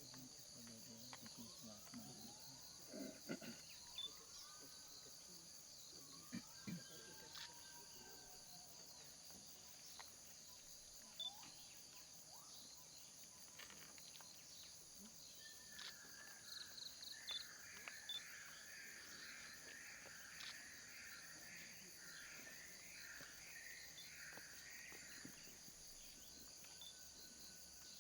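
Faint natural ambience: a steady high insect chorus, with birds calling over it in gliding whistled notes during the first several seconds and a quick run of chirped notes from about sixteen to twenty-five seconds in. A few soft knocks are heard now and then.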